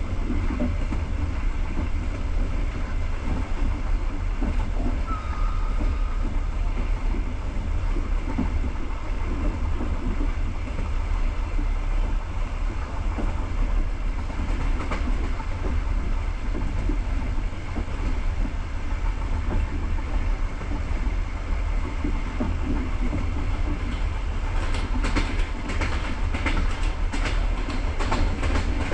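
Passenger train moving, a steady low rumble of wheels on the track. About 24 s in comes a quick run of wheel clicks, clickety-clack over rail joints or points.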